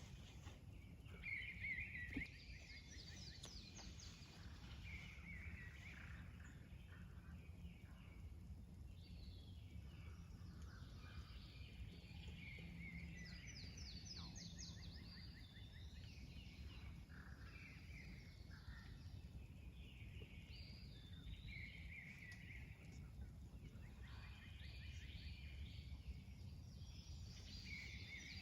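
Faint birdsong: several birds singing short trilled and whistled phrases over and over, over a steady low rumble.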